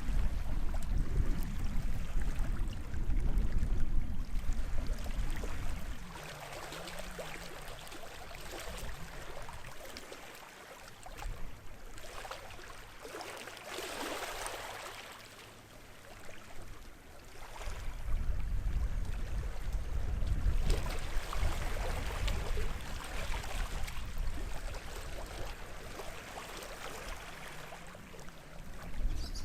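Sea waves washing onto the shore, swelling and fading, with a louder wash about halfway through. A low rumble lies under it for the first six seconds and again from about eighteen seconds on.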